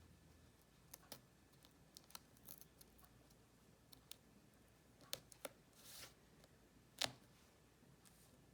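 Faint paper-crafting handling sounds: scattered small clicks and a brief rustle of paper or card stock, with the sharpest click about seven seconds in.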